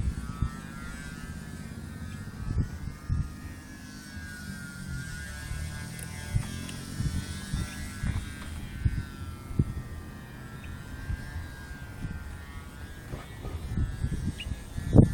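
Electric radio-controlled model aircraft flying, its motor whine drifting up and down in pitch, over a low rumble with occasional low knocks.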